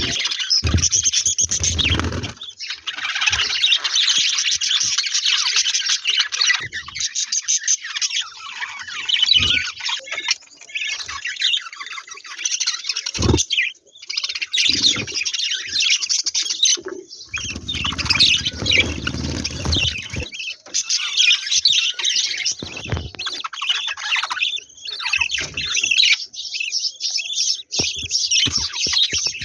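Budgerigar chicks in the nest chirping continuously in a dense, high-pitched chorus, the hungry calls of nestlings at feeding time. A low rumble comes in briefly near the start and again for a few seconds past the middle.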